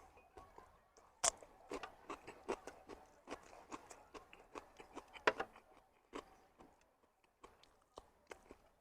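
A person chewing food close to the microphone: soft, irregular wet clicks and smacks, with a sharper click about a second in and another past the middle.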